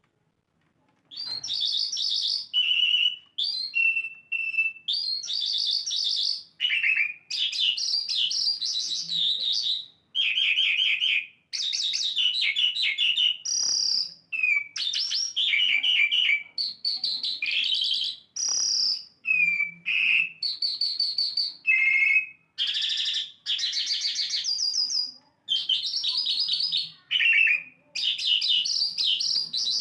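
Asian lark singing a long, varied song of quick high-pitched phrases with brief pauses between them, starting about a second in.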